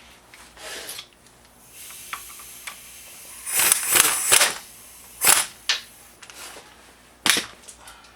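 A series of sharp clacks and knocks from tools and metal parts being handled. A loud cluster lasting about a second comes near the middle, then two more sharp hits and a single one near the end.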